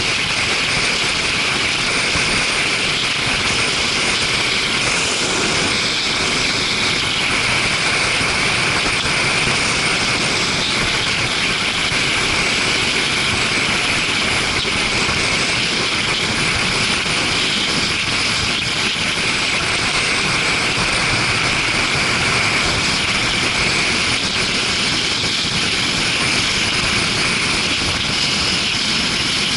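Steady rush of wind on the microphone with motorcycle engine noise underneath, from a Suzuki GW250 Inazuma being ridden at a constant speed.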